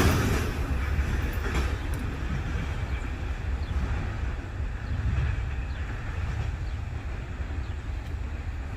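Double-stack intermodal freight train rumbling away down the track, fading as its rear end recedes.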